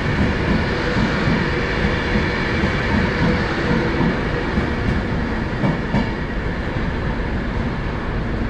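A train running through a railway station, a steady rumble with a few sharp clicks about halfway through.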